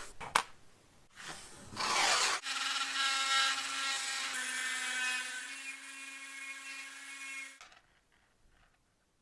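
A click and short scraping noises, then a small electric motor running with a steady whine for about five seconds before it cuts off.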